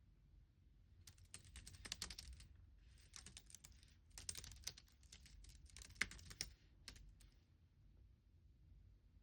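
Computer keyboard typing: faint bursts of rapid key clicks starting about a second in, with short pauses between bursts and a few lone keystrokes near the end.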